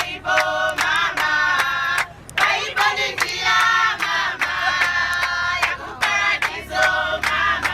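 Women's choir singing, with steady hand clapping keeping the beat at about four claps a second.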